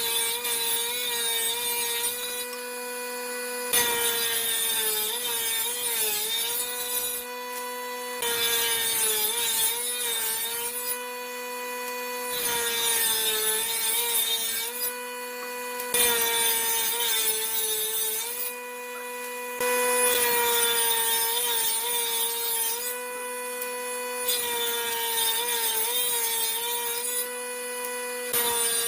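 Power tool cutting wood: a steady motor whine whose pitch wavers at times, under a rasping cutting noise that stops for about a second every few seconds.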